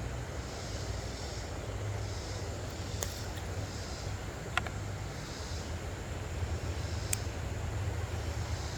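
Outdoor ambience: a steady low rumble with a hiss that swells and fades about every second and a half, and three short sharp clicks.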